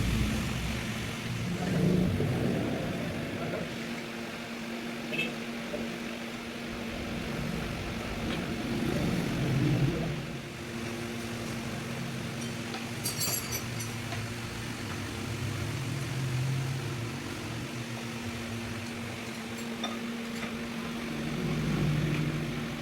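A steady hum with engine-like swells that rise and fade every several seconds, like vehicles passing, and a few light clicks about thirteen seconds in.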